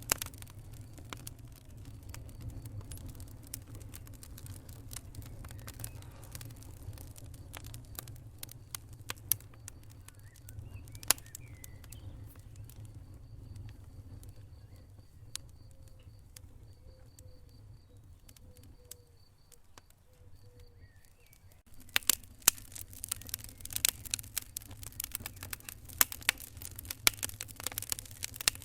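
Wood fire in a fireplace crackling and popping over a low steady rumble of the flames. The pops thin out for a stretch in the middle, then turn dense and loud about eight seconds before the end.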